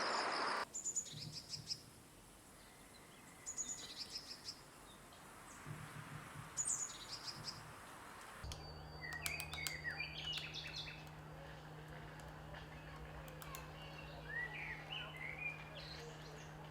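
Small birds chirping and calling in short, scattered phrases, with quick whistled notes that slide up and down. About eight seconds in the recording changes abruptly to other birds calling over a steady low hum.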